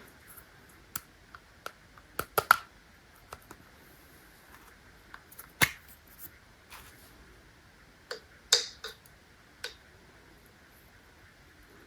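Scattered sharp clicks and taps, a few louder knocks among them, irregularly spaced over a faint steady background hiss.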